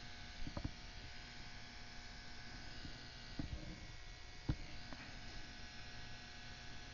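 Hot-air tool blowing steadily with a low hum and hiss as it heats the adhesive under an iPod Touch's glass, with a few light clicks and taps, the loudest about four and a half seconds in.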